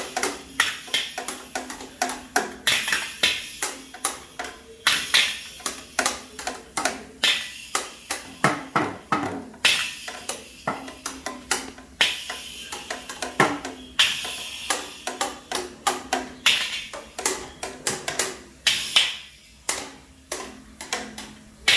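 A drum set being played in loose, uneven strikes, about two to three hits a second, mixing drum hits with cymbal crashes.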